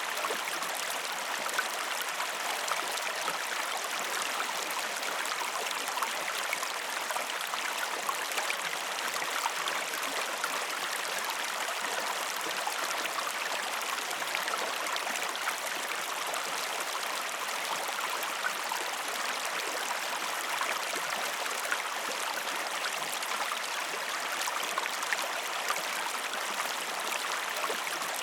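Steady flowing water of a river or stream, an even rushing babble with small splashes throughout.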